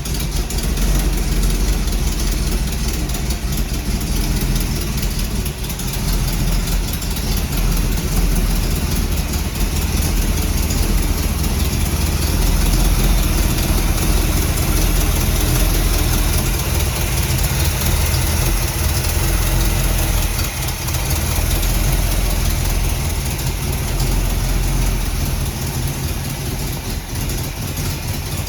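1939 Ford Super Deluxe's 350 small-block Chevrolet V8 idling steadily, with a constant hiss over the engine note.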